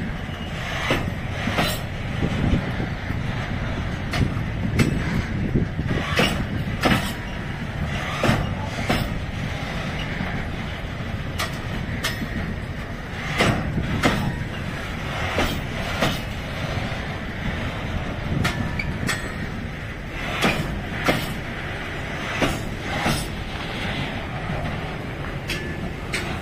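Freight train of container flat wagons rolling slowly past, a steady low rumble with sharp wheel clacks over the rails, often in pairs, every second or two.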